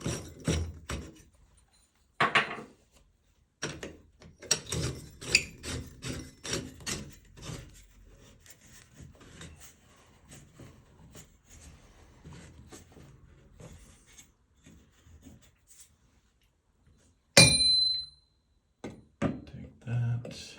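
Shower faucet trim parts being handled and fitted by hand: clusters of small clicks and knocks with some rubbing, and near the end one loud, sharp metallic clink that rings briefly.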